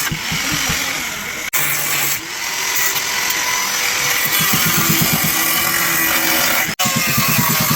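Loud mechanical workshop noise, a power tool or engine running with a rhythmic low pulsing, changing abruptly twice where the clips are cut together.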